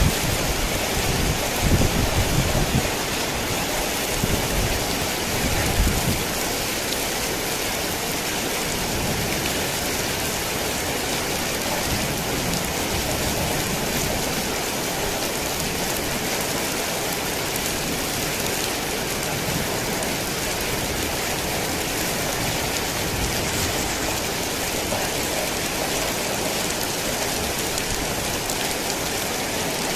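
Heavy rain falling steadily, with low rumbles of thunder during the first few seconds.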